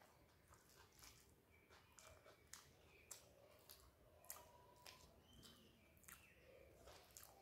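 Faint chewing of a mouthful of rice, with irregular sharp wet clicks and smacks, and soft squishing of fingers mixing rice on a steel plate.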